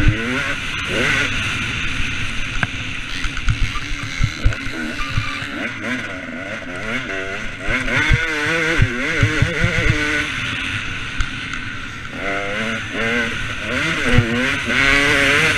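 Two-stroke motocross bike engine, a KTM 250 SX, revving hard and falling back again and again as it is ridden round the track, with a constant rush of wind and scattered knocks.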